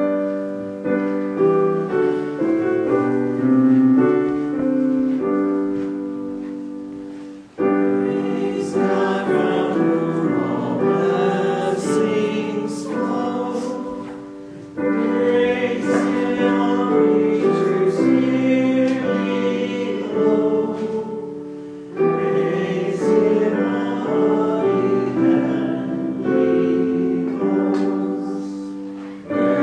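Choir singing with piano accompaniment. The notes are held in phrases, each starting strongly, about every seven seconds.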